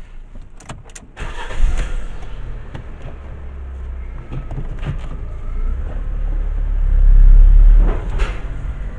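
Ford Ka's engine starting about a second in after a few short clicks, then running with a steady low rumble that grows louder toward the end before easing off.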